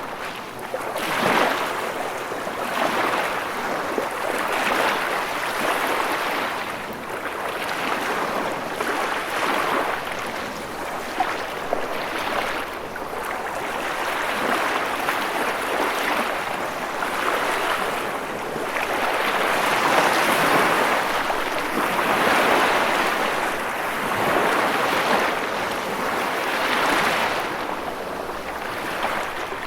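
Ocean waves breaking and washing onto the shore in a continuous surf, swelling and easing every few seconds.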